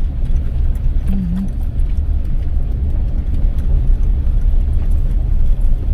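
Car driving along a road, a steady low rumble of engine and tyres heard from inside the cabin.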